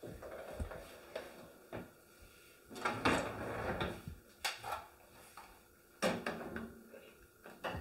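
Bosch built-in dishwasher door lowered open with a few clicks, then the lower wire rack rolled out with a rattle about three seconds in. A laptop is set down into the wire rack with several sharp knocks.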